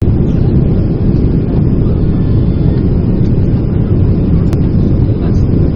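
Airbus A330-200 airliner on its landing approach: a loud, steady low rumble.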